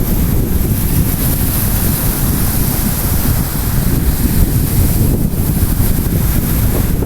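Strong wind buffeting the microphone in a steady low rumble over the wash of storm waves on the shore.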